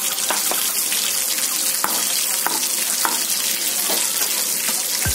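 Sweet and sour sauce simmering in a metal wok: a steady sizzling hiss with a few light clicks as a ladle stirs it.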